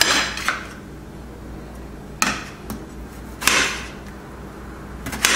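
Kitchen knife chopping a tomato on a cutting board: a handful of sharp, separate strikes at irregular intervals, some a second or more apart.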